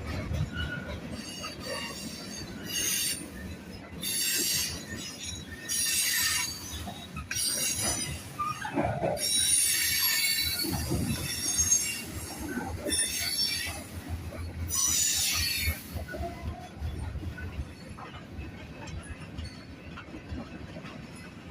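Freight cars rolling past with a steady low rumble from the rails, and the steel wheels squealing in a series of high-pitched bursts, each lasting up to a second or so. The squealing stops about two-thirds of the way through, leaving only the rumble.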